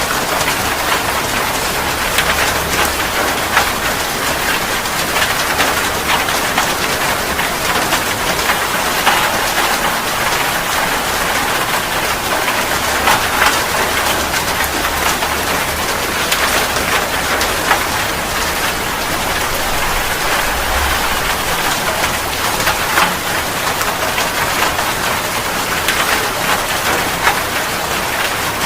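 Steady heavy rain falling, a dense even patter of drops on surfaces.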